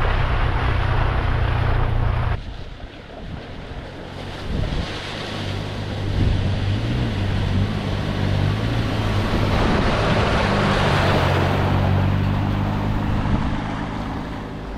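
4x4 truck engine running while driving, with a steady rush of wind and road noise. The sound drops off abruptly about two seconds in, then the engine note wavers and builds again.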